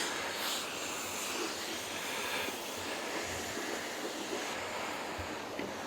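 Steady outdoor background noise, an even hiss with no engine running, with a soft low thump about five seconds in.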